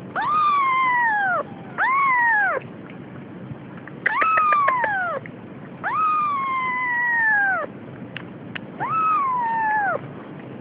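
Domestic cat meowing again and again: five long, drawn-out meows, each rising and then falling in pitch, with short gaps between them. A few faint clicks come between the calls.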